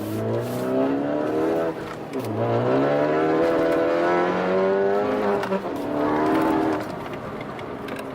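Ford Focus ST's turbocharged 2.0-litre four-cylinder, with catless downpipe and resonator delete, revving up and dropping back about three times; the longest climb runs from about two seconds in to about five and a half.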